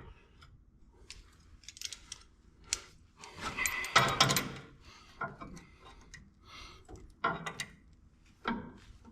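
Intermittent clinks, knocks and rattles of metal brackets and tools being handled while a suspension mount is fitted, with a longer, louder clatter about four seconds in.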